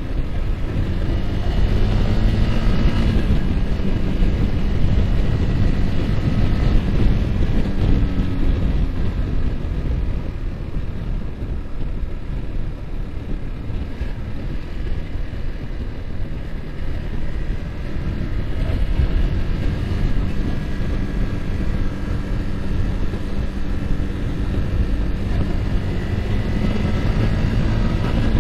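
Yamaha R15's single-cylinder four-stroke engine pulling under way, its pitch rising and falling with the throttle, under heavy wind rush on the microphone. It eases off in the middle and builds again toward the end.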